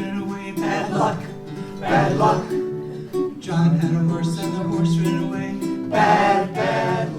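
Live acoustic folk music: plucked strings playing steady chords under a singing voice.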